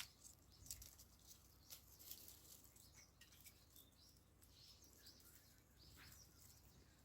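Near silence, with faint scattered bird chirps and a few light ticks.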